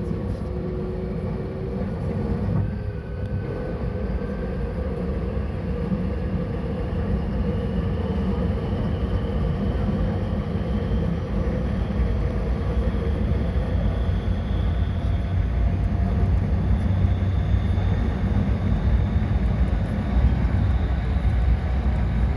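Electric commuter train accelerating away from a station, heard from inside the car: a traction-motor whine slowly rising in pitch over a steady rumble of wheels on track that grows louder toward the end.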